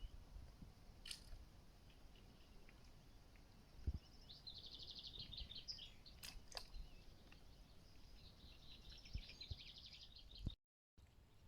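Faint songbird singing: two long phrases of rapid, trilled high notes, with scattered short chirps between them. A single low thump sounds just before the first phrase.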